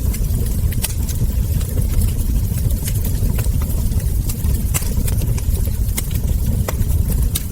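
Wood fire crackling over a steady low rumble, with irregular sharp pops from the burning logs and embers, several of them louder in the second half.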